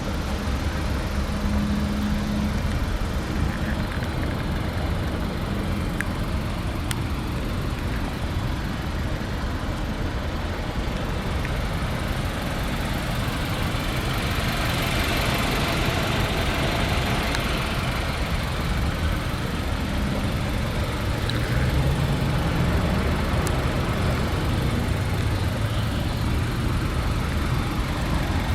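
2015 Volkswagen Golf's 1.4-litre turbocharged inline-four engine idling steadily, a low rumble.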